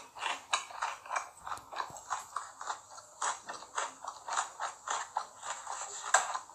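Close-miked chewing of a cheeseburger: wet mouth smacks in a steady rhythm of about three a second, with one sharper smack near the end.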